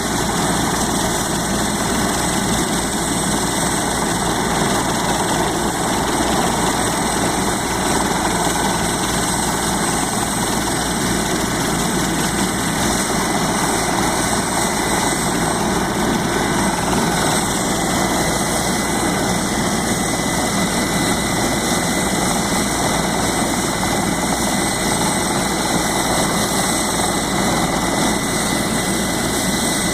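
Helicopter engine running steadily, a loud, even roar with a faint steady high whine.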